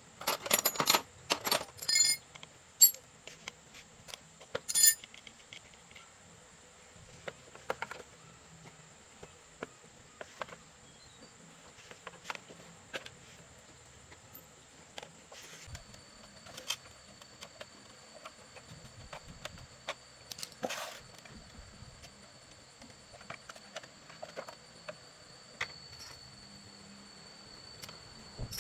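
Scattered metallic clinks and taps, with a cluster of loud ones in the first five seconds, over a steady high-pitched tone; a second, lower steady tone joins about halfway through.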